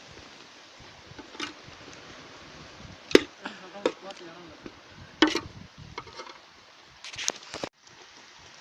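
A handful of sharp knocks at irregular intervals, the loudest about three and five seconds in, with a quick cluster near the end.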